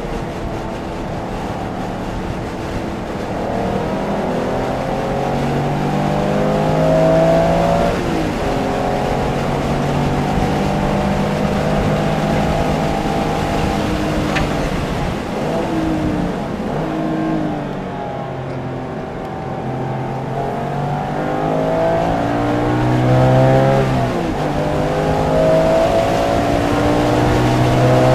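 Porsche engine under hard acceleration on a racetrack, heard from inside the car. Its pitch climbs and then drops again several times as the driver works up and down through the gears.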